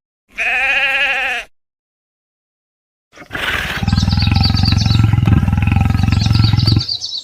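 Two animal calls: a short wavering bleat-like call, then after a silent gap a long, low, pulsing roar-like call lasting about four seconds.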